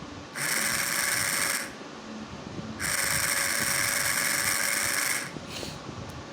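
Small DC motor whirring at high speed, switched on in two bursts: one of about a second and a half, then one of about two and a half seconds, with a brief faint blip near the end.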